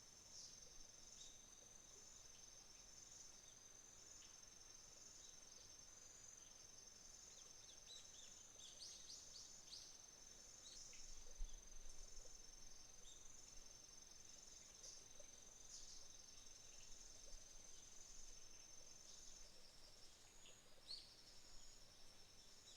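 Faint chorus of autumn insects such as crickets: one steady high trill and a second pulsing trill just below it. Short bird chirps break in now and then, several together about nine to eleven seconds in.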